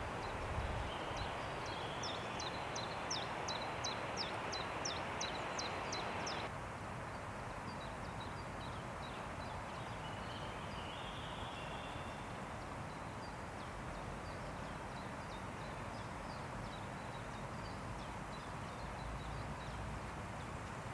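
Wind rushing through forest trees, with a small songbird repeating short, high, falling call notes several times a second. The wind noise drops suddenly about six seconds in, and the bird calls carry on more faintly.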